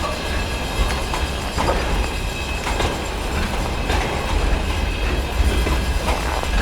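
Train rolling past, its wheels clacking over the rail joints about once a second, over a steady heavy low rumble.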